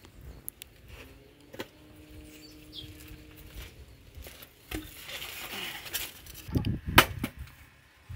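Scattered knocks and snaps of wood being handled and broken for a bonfire, with low thuds and one loud sharp crack about seven seconds in.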